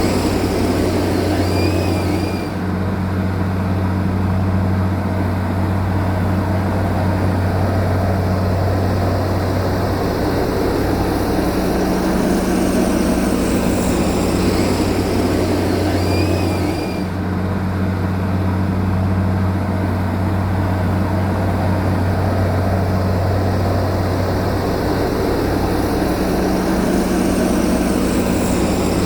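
Heavy earth-moving machine's engine running steadily with a deep, even hum, dipping briefly twice; a faint short chirp sounds twice, and the same pattern comes round again about every fourteen and a half seconds.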